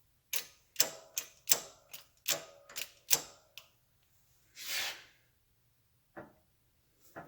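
Quick, sharp, ringing taps, about ten in three seconds, then two more single taps, as a new oil seal is tapped down level in a Triumph Trident's engine case where it sat high on one side. A short hiss comes about four and a half seconds in.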